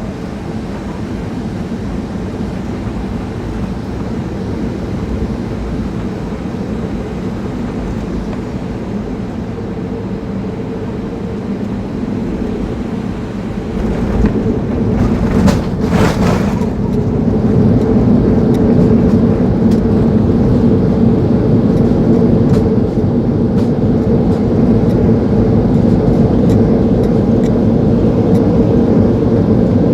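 Cabin noise of a Boeing 737-800 with CFM56 engines on final approach: a steady rumble of engines and airflow. About fifteen seconds in comes a brief jolt and rattle at touchdown. After that a louder, heavier rumble builds as the jet decelerates down a rain-soaked runway.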